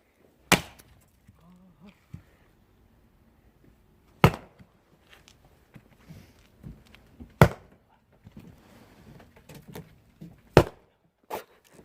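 Axe striking firewood: four heavy chopping blows about three seconds apart, then a lighter knock near the end.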